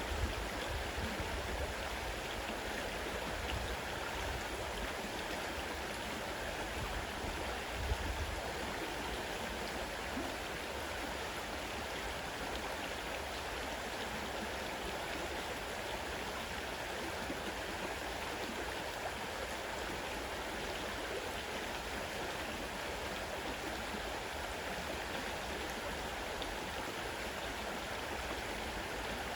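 Fast-running river water rushing steadily, an even, unbroken sound.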